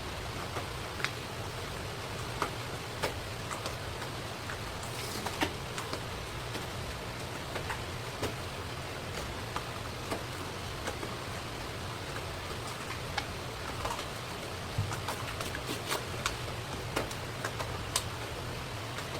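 Knife clicking and tapping on a cutting board as a rock bream is cut up for sashimi: irregular sharp clicks over a steady background hiss and hum.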